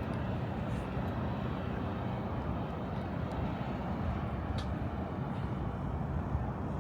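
Steady low rumble of a vehicle engine running, with a few faint light ticks.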